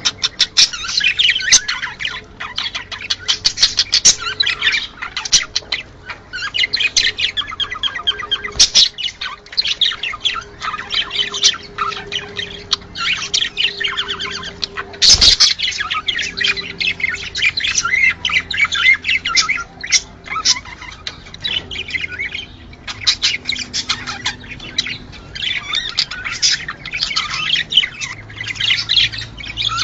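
A flock of budgerigars chattering without a pause, a dense mix of chirps, warbles and squawks. One sharp click about halfway through.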